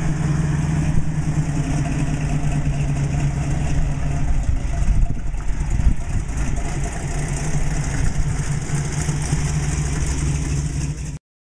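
The modified 351 Cleveland V8 of a 1973 Ford Mustang Mach 1 running steadily, a deep, even engine note. It cuts off suddenly near the end.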